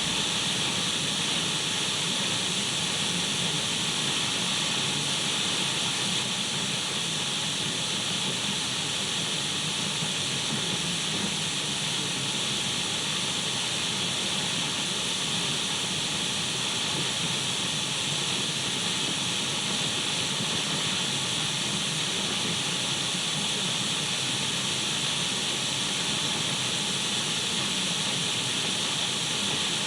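Radio static: a steady, unbroken hiss of an untuned radio, sharpest in the upper range, used as white noise.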